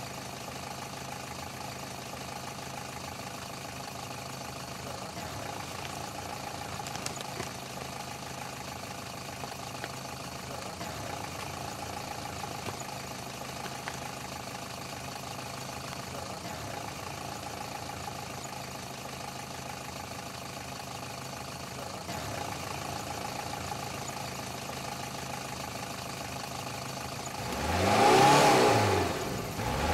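Car engine idling steadily, then revved up and back down near the end.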